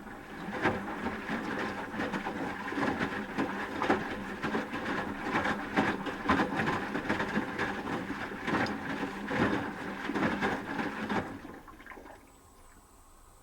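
Asko Quattro W6098X washing machine drum tumbling the load through wash water, with sloshing and splashing. It stops near the end, a pause between drum turns in the wash.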